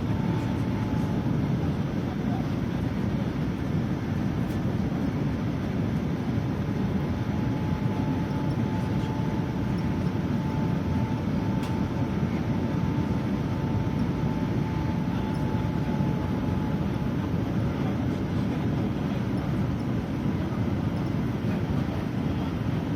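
Steady low rumble of a Boeing 787-9 airliner's jet engines in flight, with a faint high whine held for several seconds midway.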